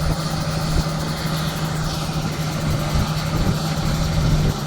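A large engine running steadily at idle, a constant low hum with a steady drone.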